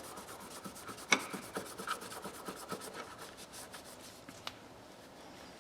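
A cloth rubbing and wiping over a metal hand tool, working cleaner wax over it to lift off polishing compound, with a sharp click about a second in. The rubbing tapers off near the end.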